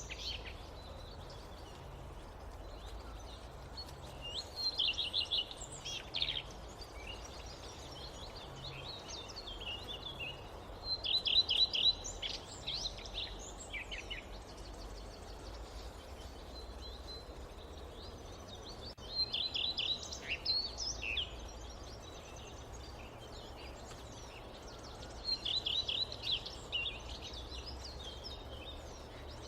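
A songbird singing a short phrase of rapid repeated high notes, about a second long, four times roughly seven seconds apart, over steady low background noise of the forest ambience.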